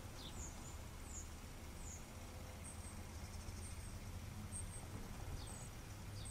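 Faint, short high chirps of small birds, repeated every second or so, over a steady low outdoor hum.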